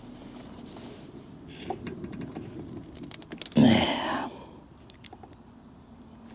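Light scattered clicks and taps of hands working a car's exhaust loose from its rubber hangers, with a short louder burst of noise about three and a half seconds in.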